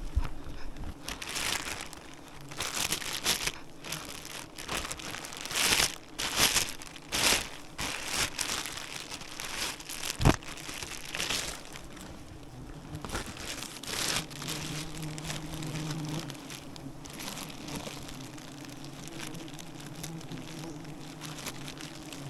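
Loud crinkling and rustling through the first half, with a sharp knock about ten seconds in. From about two-thirds through, a steady low buzz of bees takes over.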